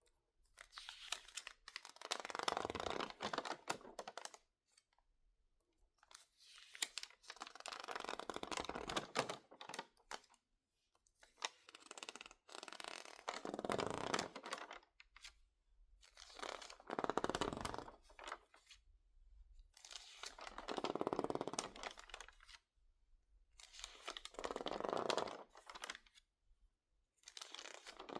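Crinkled, water-damaged magazine pages being handled, turned and squeezed, giving a crackly paper crinkling in repeated bursts every three to four seconds with short quiet gaps between.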